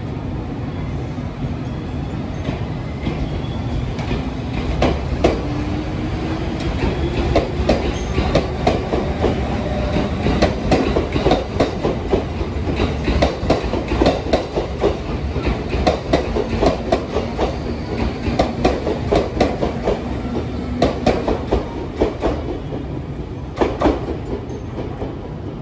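A train running past, its wheels clicking over the rail joints in a quick, uneven rhythm over a low rumble. The clicking builds about five seconds in and thins out near the end, and a low whine rises slowly in pitch a few seconds in.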